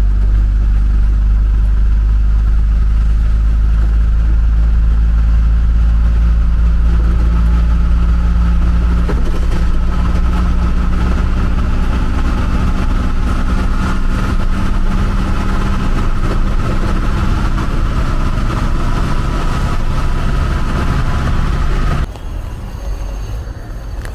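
Vehicle engine running close by in city street traffic, a loud steady low hum that drops away abruptly about two seconds before the end.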